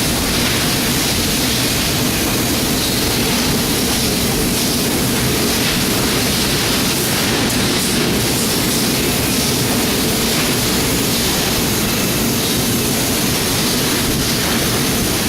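Mazak HyperGear 510 CNC laser cutter running: a steady, loud hiss and hum of machine noise.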